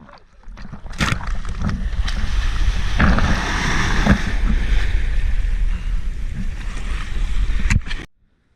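Churning surf rushing and splashing over a GoPro camera as a body surfer rides a breaking wave, with heavy buffeting and a few sharp knocks on the housing. It cuts off suddenly near the end.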